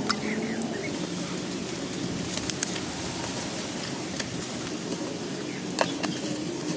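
Outdoor forest ambience: a steady hiss with a few sharp clicks and faint short bird chirps.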